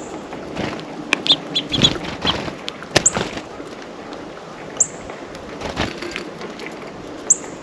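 Small songbirds calling at a feeder. Short, sharp high notes drop in pitch and repeat every two seconds or so, and a quick run of chirps comes about a second in, among scattered clicks and taps.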